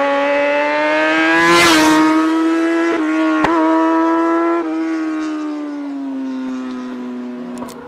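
Yamaha R6 inline-four engine running with no exhaust fitted, loud and raw: the revs climb slowly, hold high for a few seconds, then fall away gradually near the end.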